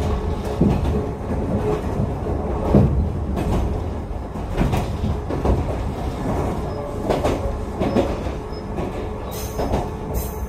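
Echizen Railway train running, heard from inside the car: a steady low rumble with irregular knocks from the wheels.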